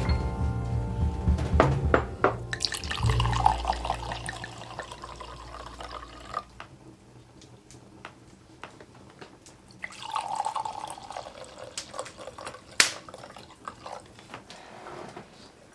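Water running briefly twice, with drips and small knocks and clicks of kitchen things, one sharper clack near the end. The last notes of a piece of music die away in the first few seconds.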